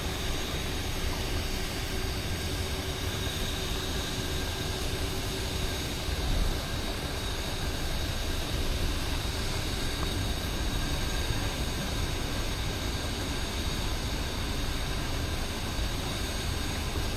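A steady, even rushing noise with a faint high steady tone over it, and one brief louder knock about six seconds in.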